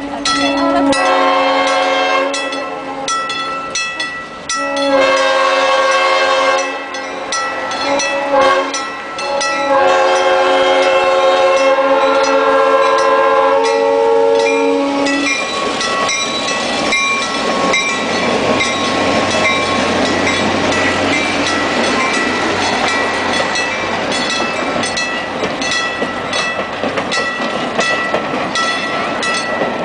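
Train horn sounding a chord in several long blasts over about the first fifteen seconds, then the train rolling past with a steady rumble and wheel clatter.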